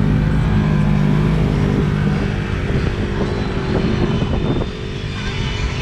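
Side-by-side UTV engine running under steady throttle while driving off-road, its note easing briefly near the end.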